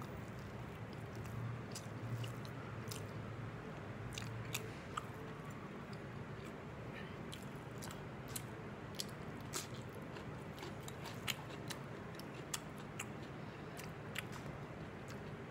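A person chewing mouthfuls of meat khichuri, a soft rice dish, with many short wet clicks and smacks from the mouth, over a steady low hum.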